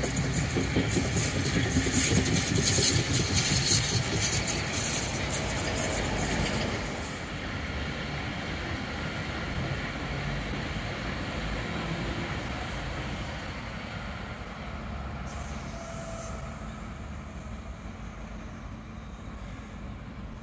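A passing train and a diesel concrete mixer truck make a loud rushing rumble for about the first seven seconds. The sound then drops to a quieter steady rumble as an underground-line train crosses a bridge some way off.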